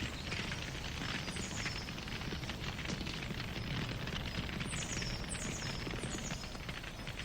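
Wood fire burning with steady soft crackling and many small pops over a low rumble. A few faint high falling whistles come through, about a second in and again after five seconds.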